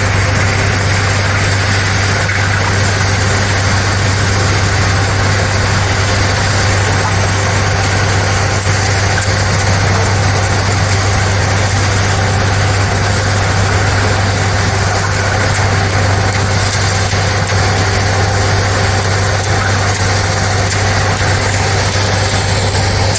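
A heavy engine running steadily, with a constant low hum and no change in pitch or level.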